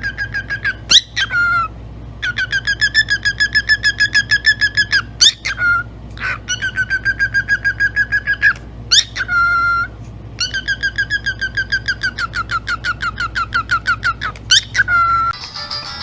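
A pet parrot giving a rapid pulsed whistle, about ten notes a second in runs of two to three seconds, each run broken by quick rising swoops. A steady low hum lies underneath.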